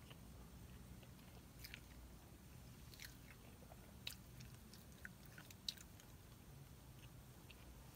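Faint close-up chewing of a bite of crispy chicken biscuit, with scattered soft mouth clicks and smacks. The sharpest click comes about three-quarters of the way through.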